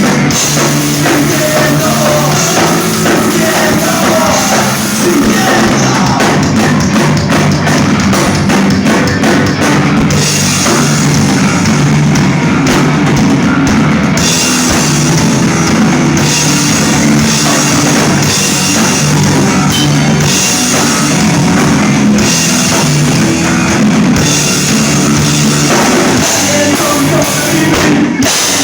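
Live rock band playing at full volume: distorted electric guitars over a pounding drum kit.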